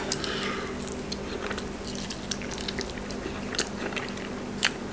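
A man chewing and biting chicken close to the microphone: wet mouth smacks and scattered clicks, with a couple of sharper clicks near the end, over a steady low hum.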